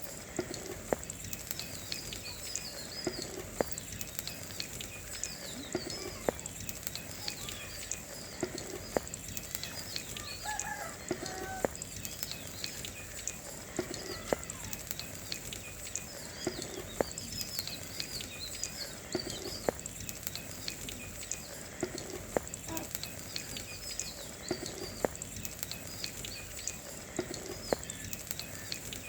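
Small birds chirping over and over, with a steady high hiss and a few scattered clicks underneath.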